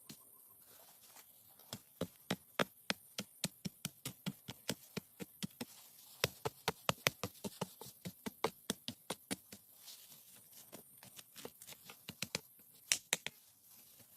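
A quick, irregular run of sharp taps or clicks, about three to five a second, starting about two seconds in and stopping near the end, over a faint steady hiss.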